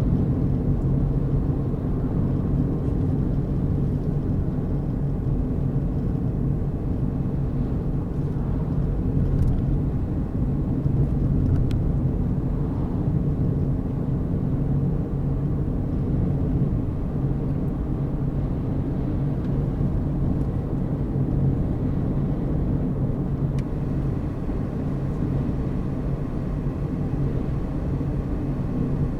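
Car driving at a steady speed: continuous engine and tyre-on-road rumble with a low drone.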